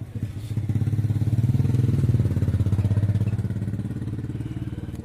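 Kirloskar diesel engine running with a fast, even pulsing beat that swells louder about a second in, then eases off toward the end.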